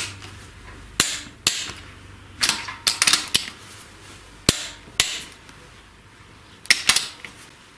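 Sharp metallic snaps of a click-type torque wrench tightening the camshaft housing nuts to torque, heard about ten times at irregular intervals, some single and some in quick pairs.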